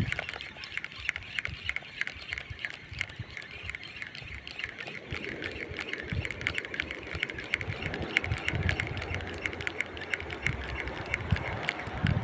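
Shimano FX C3000 spinning reel being cranked to retrieve a lure, giving a rapid, steady ticking.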